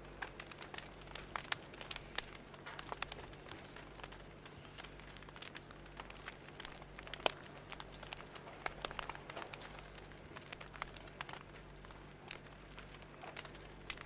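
Fire crackling: irregular sharp pops and snaps over a soft hiss, with a faint steady low hum underneath.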